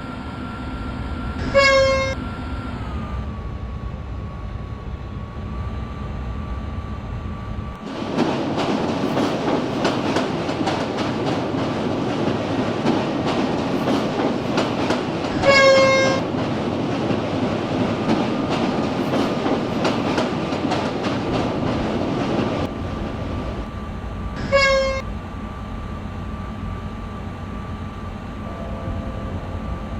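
A train horn gives three short toots: one about two seconds in, one about halfway through, and one about five seconds before the end. In the middle, for about fifteen seconds, a train's wheels clatter loudly over the rail joints; the clatter starts and stops abruptly.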